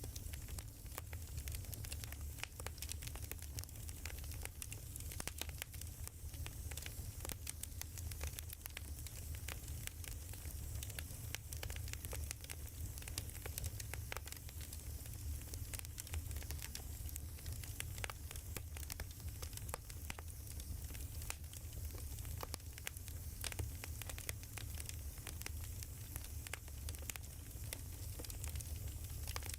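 Wood fire crackling: many scattered sharp pops and snaps over a steady low rumble.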